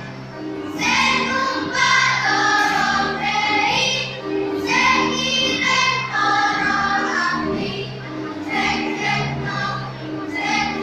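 Choir singing a song, several voices together in sustained phrases.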